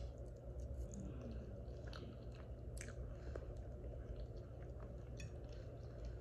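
Close-up chewing of a mouthful of loaded potato in alfredo sauce, with scattered small wet mouth clicks and smacks over a low steady hum.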